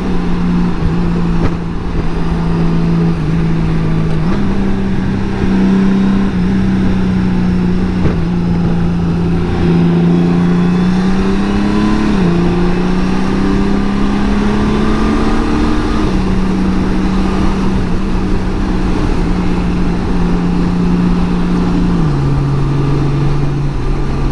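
2018 Honda Gold Wing's flat-six engine running at highway speed while riding. Its pitch steps abruptly up and down several times as the dual-clutch transmission shifts and the throttle changes.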